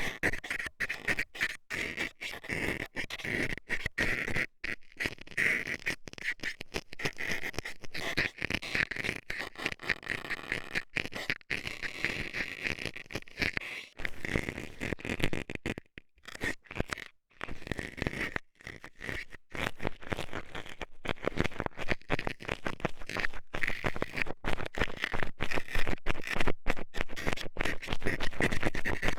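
Metal scaler scraping and jabbing in rapid, irregular strokes in the ear of an ASMR microphone, with a couple of brief pauses past the middle.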